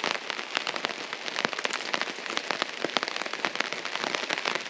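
Steady rain falling on a tarp overhead: a dense, irregular patter of drop hits.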